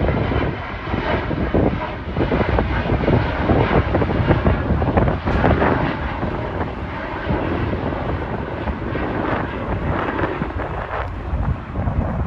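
Jet airliner's engines at takeoff power on departure: a loud, steady rushing jet noise.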